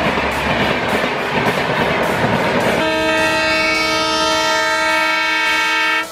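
Rushing noise and wheel clatter of a train passing at speed on the adjacent track, heard from a moving coach. About three seconds in it gives way abruptly to a long, steady, multi-tone locomotive horn blast, which stops near the end.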